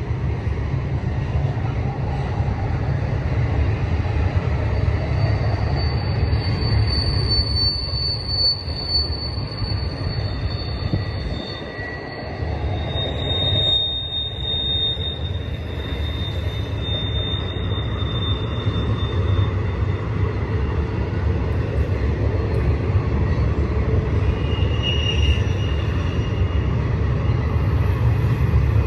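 BNSF intermodal train's cars rolling past close by, a steady low rumble of wheels on rail. High wheel squeal rings out for much of the middle, with a shorter squeal near the end.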